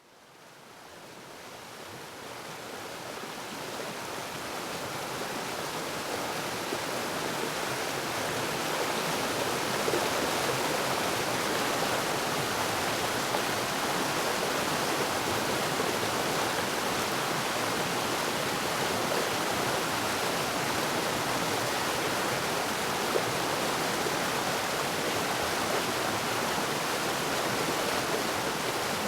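Waterfall: a steady rush of falling water. It fades in from silence over the first several seconds, then holds even.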